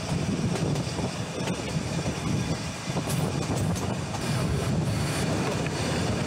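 Nilgiri Mountain Railway passenger carriage running along the track: a steady low rumble of the train in motion, with wind on the microphone.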